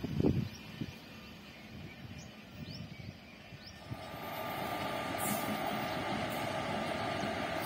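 A gust of wind on the microphone dies away in the first half-second. About four seconds in, an approaching Indian Railways electric locomotive and its passenger train come in as a steady rushing noise with a steady whine in it. The noise grows louder, then holds.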